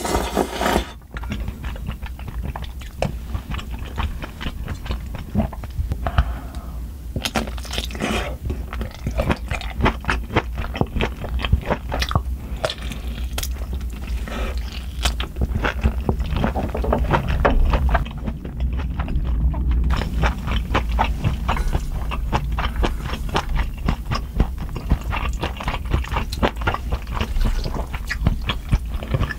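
Close-miked eating: biting into a whole smoked kielbasa sausage with a snappy casing, and wet, irregular chewing clicks of the sausage and spicy soupy instant noodles.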